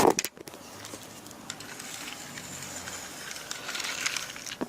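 A train running fast along the line: a steady rushing noise, with a short sharp sound at the very start.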